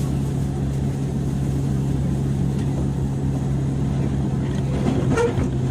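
Interior sound of a JR 103 series electric train car, motor car MoHa 103-773: a steady low hum over rumble. A brief squeal and some clicks come near the end.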